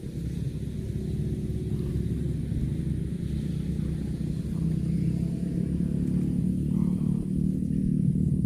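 A steady low engine rumble, slowly growing louder.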